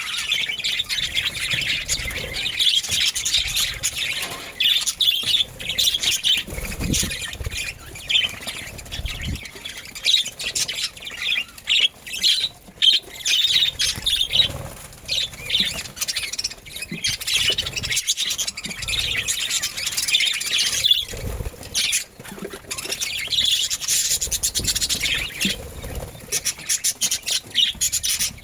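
Budgerigars chattering continuously, a dense run of short squawks and warbling chirps.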